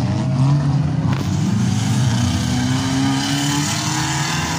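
Several demolition derby cars' engines revving and labouring at once, pitch rising and falling, with a single thump about a second in.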